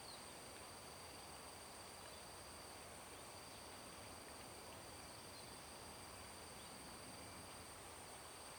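Insects, crickets or cicadas, droning steadily in two high pitches over a faint, even outdoor hiss.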